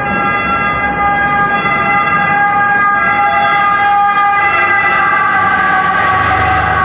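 A historic train's wheels squealing on the rails: a loud, shrill screech of several pitches at once over rumbling rail noise, held the whole time, its pitch sagging slightly near the end.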